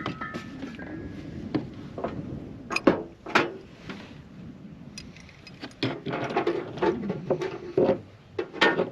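Camp cooking gear being handled and set down: an irregular string of knocks, clunks and clinks of the stove, gas bottle and cookware, busier in the second half.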